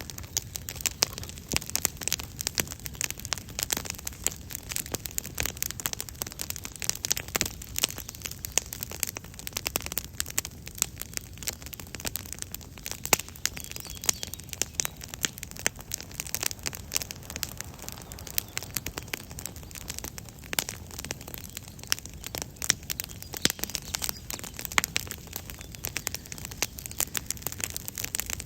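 Wood campfire crackling steadily: a dense, irregular run of small sharp pops and snaps over a soft hiss.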